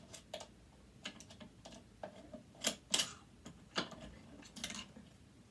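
Irregular small clicks and taps of a screwdriver turning a screw out and hard parts being handled, with the two loudest clicks a little past the middle.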